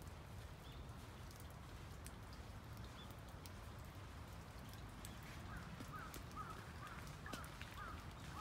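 Faint outdoor ambience with a low steady rumble and scattered light ticks, like drips. About five seconds in, a quick run of short chirping calls from small birds.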